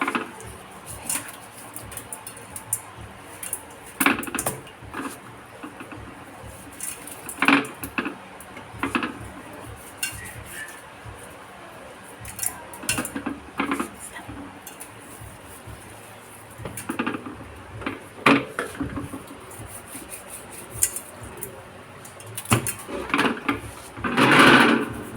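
Kitchen dishes, pots and utensils being handled: scattered separate clinks and knocks, with a longer, louder noise just before the end.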